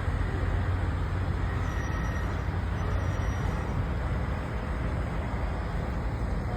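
A vehicle engine running with a steady low hum and no changes in pace.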